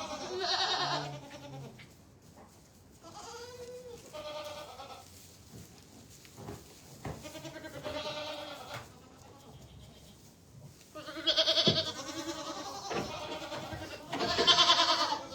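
Hungry goats bleating while they wait for fresh hay. There are about five separate calls a few seconds apart, and the loudest two come near the end.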